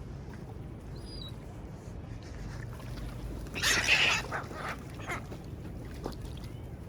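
Seagulls over a steady low rumble: a faint high chirp about a second in, then a short, loud, harsh rasp a little past halfway, followed by a few fainter ones.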